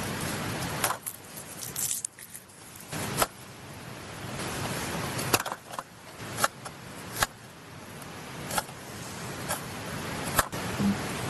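Sharp metallic clinks and knocks of camp cookware and utensils being handled, about one a second at irregular intervals, over the steady rush of a mountain stream.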